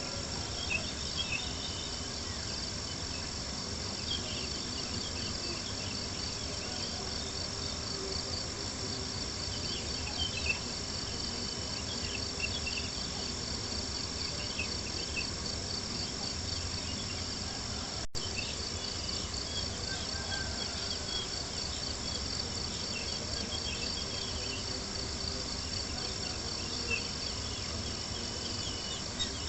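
Crickets chirping in a steady, continuous pulsing trill, over a low even background hiss, with a few faint pops from a crackling campfire.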